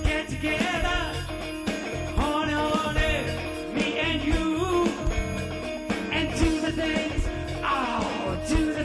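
A rock band playing a song, with a lead vocal over sustained chords and regular drum hits.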